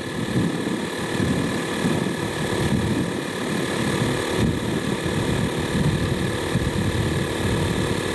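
Audew 12-volt portable air compressor running steadily with a low rattle and a steady hum, pumping air into a car tire, still building toward its preset shut-off pressure.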